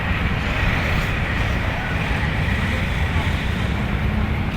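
Wind buffeting the microphone, a steady low rumble over an even outdoor hiss.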